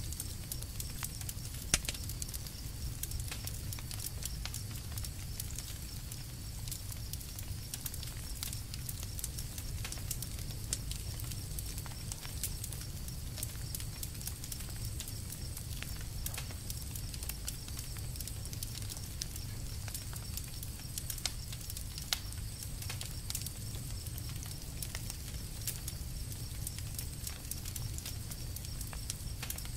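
Campfire crackling: wood snapping and popping in irregular sharp clicks, the loudest about two seconds in, near eleven seconds and about twenty-two seconds in, over a steady low rumble.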